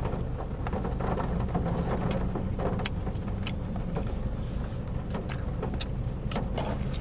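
Close-up chewing and mouth sounds from a bite of a chicken wrap, with irregular clicks about twice a second, over a steady low rumble inside a car.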